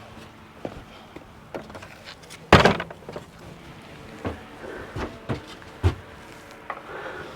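Shed door being opened: a loud knock and scrape about two and a half seconds in, followed by several lighter knocks and rattles.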